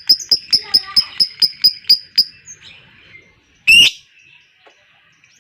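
Lovebird chattering in its long 'ngekek' song: a fast, even run of sharp high notes, about five a second, that breaks off after about two seconds. About a second and a half later there is one loud harsh squawk.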